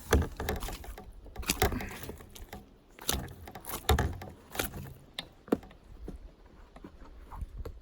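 Scattered light knocks, clicks and rattles of things moving about in a kayak, spaced irregularly and fading toward the end.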